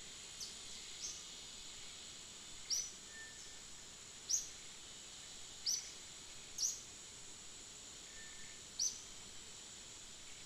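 Outdoor ambience: a steady high insect drone, with about seven short, sharp high chirps spaced irregularly through it.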